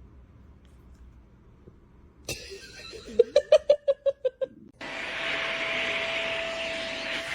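A click, then a quick run of about eight short pitched yips or laugh-like sounds. About five seconds in, a steady blowing motor noise with a steady whine starts, like a hair dryer or vacuum running.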